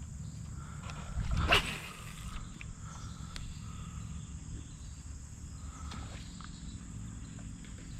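A fishing rod being cast: one short whoosh swells and cuts off about a second and a half in, over a steady low rumble.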